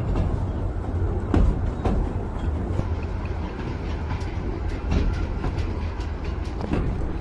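Miniature tourist train running on its track: a steady low rumble with scattered clicks and knocks.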